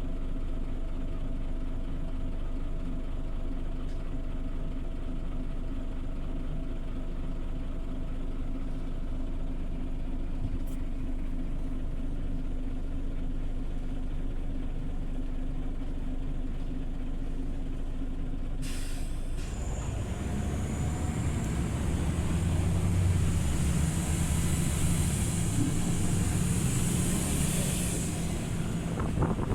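Scania OmniLink CL94UB city bus engine idling with a steady hum. About two-thirds of the way in comes a short burst of air hiss, after which the engine runs louder and rougher with a high hiss over it, typical of the bus releasing its brakes and pulling away.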